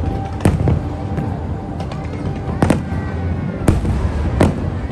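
Aerial fireworks bursting: about six sharp bangs at irregular intervals, two of them in quick pairs, over a steady background din.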